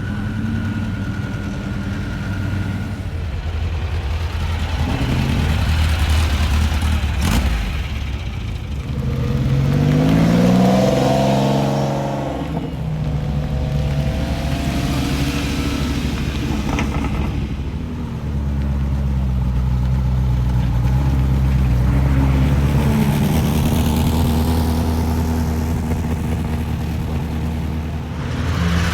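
Car engines running and accelerating, the engine note rising as one revs up about ten seconds in and again past the twenty-second mark, with a short sharp knock a little after seven seconds.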